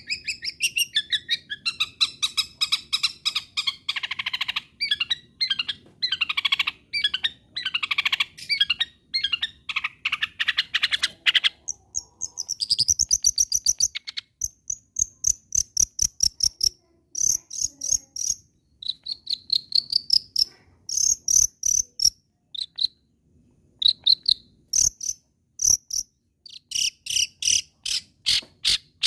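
Long-tailed shrike singing a fast, scratchy chattering song. About halfway through it changes to sharp clicks and short high whistled notes, with a short pause.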